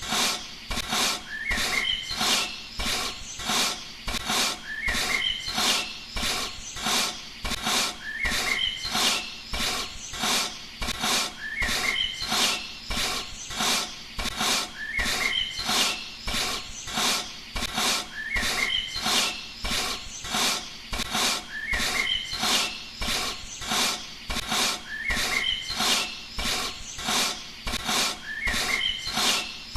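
Steady rhythmic animal calls: sharp pulses about three times a second, with a short rising chirp coming back every few seconds.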